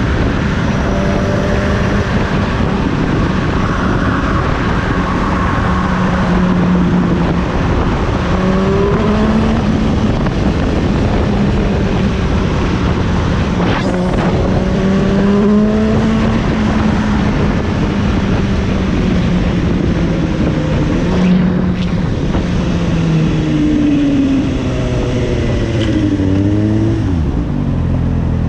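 Suzuki GSX-S750 inline-four engine running under way, its note rising and falling with the throttle over steady wind and road noise. Near the end the pitch drops in a few quick steps and settles to a lower, steady note.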